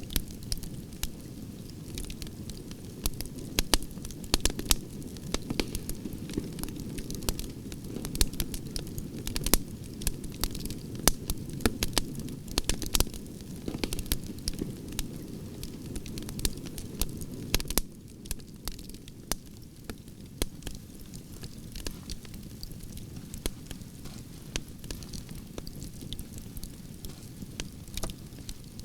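Campfire of burning branches: a steady low rush of flames with frequent sharp crackles and pops of burning wood. The flame sound drops a little about two-thirds of the way through.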